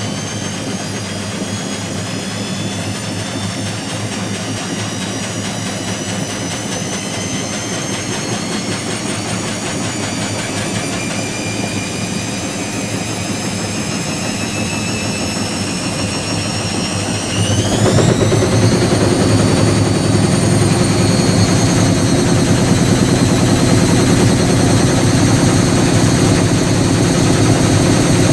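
Whirlpool AWG023 H-Axis top-loading washing machine on a spin: the motor whine rises slowly in pitch, then a little over halfway through jumps suddenly louder and higher as the drum speeds up to a faster spin, and runs steady at that speed.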